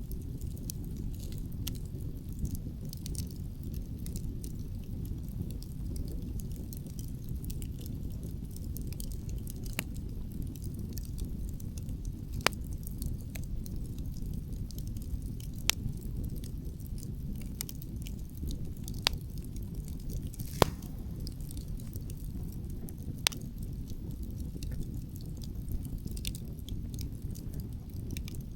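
Outdoor wood fire crackling, with many small clicks and about five louder sharp pops, over a steady low rumble of wind.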